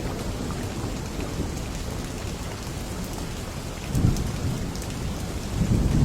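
Steady rain with scattered drop ticks, and thunder rumbling low that swells about four seconds in and again near the end.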